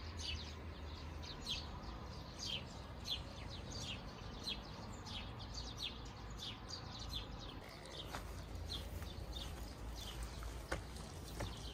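Small birds chirping: short, high, falling chirps repeated one or two times a second, over a steady low rumble.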